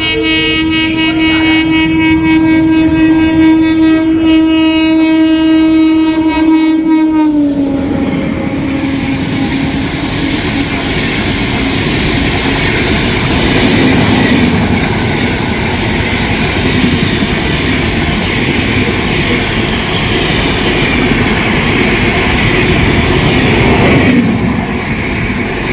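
A WAP-7 electric locomotive sounding its horn in one long blast of about seven seconds as it approaches, the pitch dropping as it passes. The coaches then rattle past with wheels clicking over the rail joints, the noise easing off near the end.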